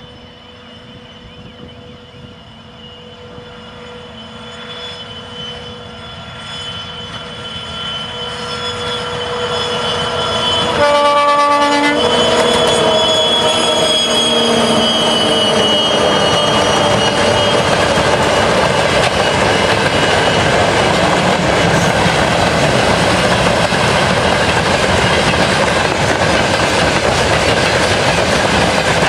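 Two 2TE116 twin-section diesel locomotives hauling a coal train approach, the diesel engine sound growing steadily louder. About eleven seconds in, the horn gives one short blast. The locomotives then pass with the engine note falling in pitch, and the coal wagons roll by with a loud, steady sound of wheels on rail.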